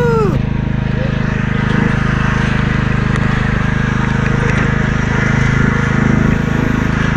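Riding lawnmower's small engine running steadily under way, a fast even low drone while it tows a wagon.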